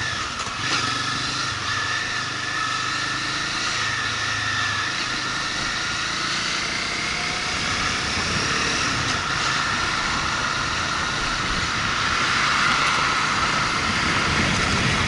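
Motorcycle engine running on the move, mixed with steady wind and road noise, getting a little louder in the last few seconds.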